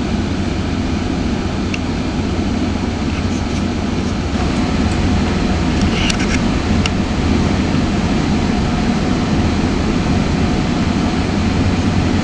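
GO Transit commuter train rolling along the track, heard from inside the coach: a steady low rumble with a few faint clicks in the first half.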